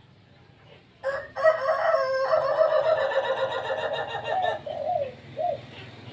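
A rooster crowing once, a long call of about three and a half seconds starting about a second in, followed by two short bending notes.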